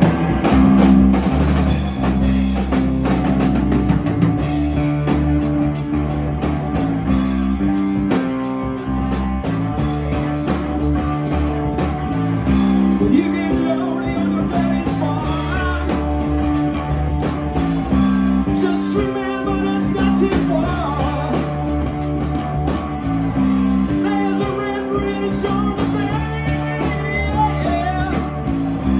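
Rock band playing: electric guitar, bass and drum kit with a steady beat, the bass and chords changing every second or two.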